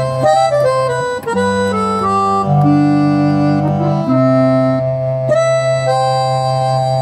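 Yamaha CK61 stage keyboard playing a wind-instrument voice: a slow melody of held notes over a sustained low note.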